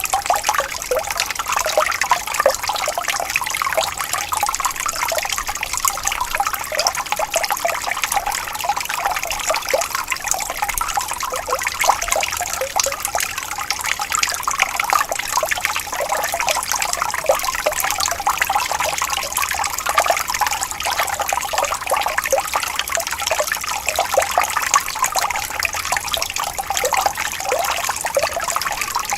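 Gently flowing water trickling and bubbling steadily, a stream or small brook with a dense patter of small splashes.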